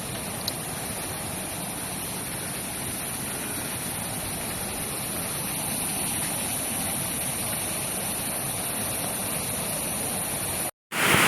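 Steady rush of falling water from a waterfall, growing a little louder about halfway through. It cuts out briefly near the end.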